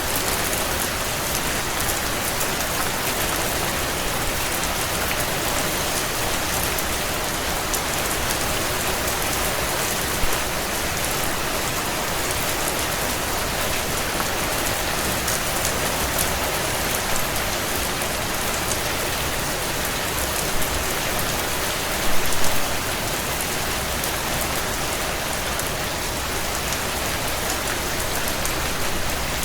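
Steady heavy rain on window glass, a dense even hiss with fine pattering. A few brief louder pops stand out, the biggest cluster about 22 seconds in.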